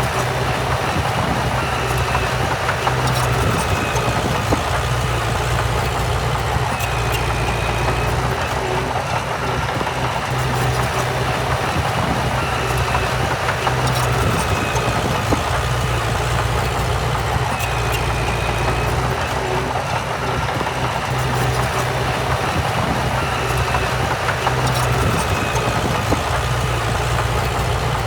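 Diesel engine of heavy earthmoving machinery running steadily with a low hum, with short high squeaks every few seconds.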